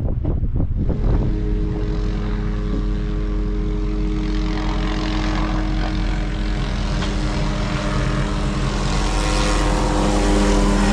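Helicopter flying nearby: a steady rotor and turbine drone with a broad rush, getting louder near the end.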